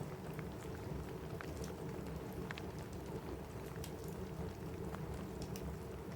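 Steady rain on a cabin roof with a constant low rumble underneath, mixed with a fireplace crackling in scattered sharp little pops and ticks.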